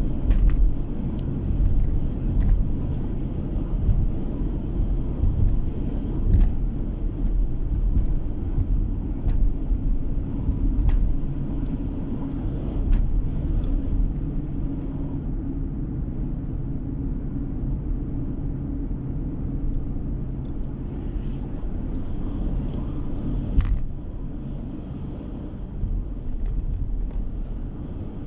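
Car driving on the road, heard from inside: a steady low rumble of tyres and engine, with scattered sharp ticks and knocks.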